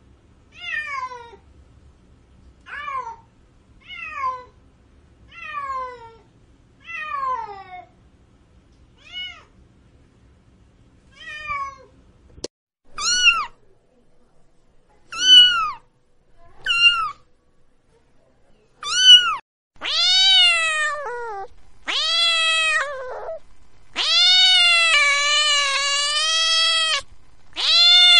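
Domestic cats meowing over and over: short mews that fall in pitch, one every second or so, then from about halfway louder calls that rise and fall. Near the end these stretch into drawn-out yowls of two to three seconds each.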